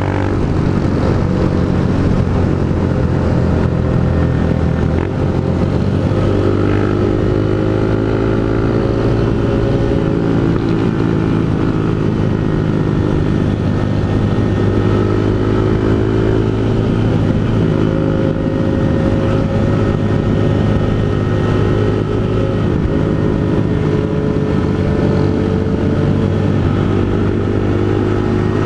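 Honda CG Fan 160 single-cylinder engine running through a Pro Tork GP Competition aftermarket exhaust while riding. Its pitch rises and falls gently with the throttle.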